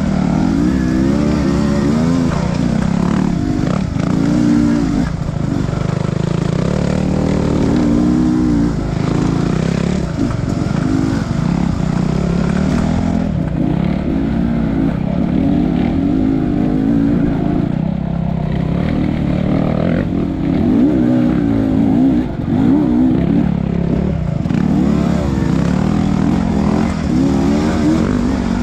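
Enduro motorcycle engine running loud while being ridden, its pitch rising and falling again and again as the throttle is opened and closed.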